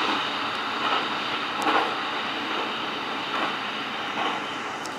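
Express train running at about 110 km/h, heard from inside the front car: a steady rumble and rush of wheels on rails, with a few faint clicks.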